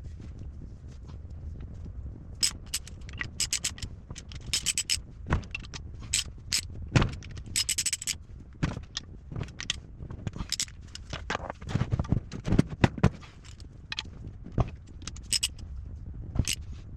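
Irregular metallic clinks, taps and scrapes of hand tools and small metal parts being handled, with a few louder knocks, over a low steady hum.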